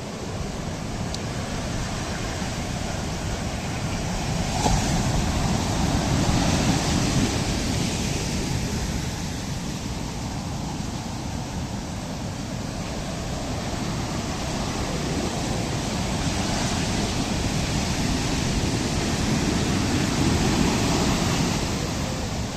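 Ocean surf washing onto a beach, a steady rush that swells and fades twice.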